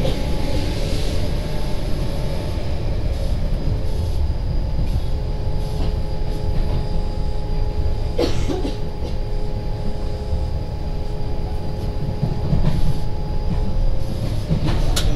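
Tobu 50070 series electric train running at a steady speed, heard from inside the car: a continuous low rumble of wheels on track with a few steady hum tones. There is a sharp click about eight seconds in and another near the end.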